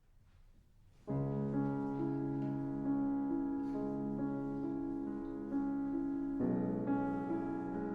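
Calm piano music that comes in about a second in, playing slow, sustained chords.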